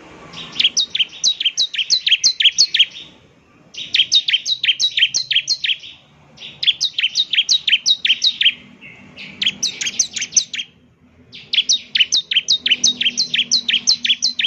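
Bar-winged prinia (ciblek) singing: fast runs of sharp, high, repeated chirps, about four a second, in five bursts of two to three seconds with short pauses between.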